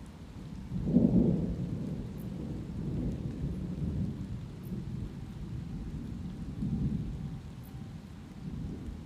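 Rolling thunder over light rain. The thunder breaks about a second in, loudest there, and rumbles on in several waves before easing near the end.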